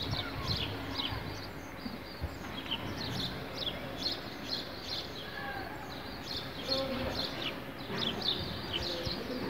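Small birds chirping in short, quick calls again and again, over steady outdoor background noise.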